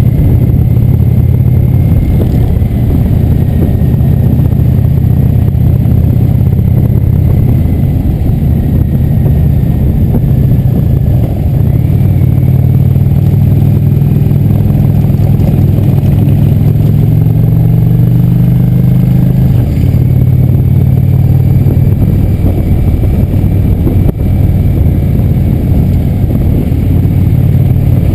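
Motorcycle engine running steadily under way, its pitch rising briefly about two-thirds of the way through and then dropping back.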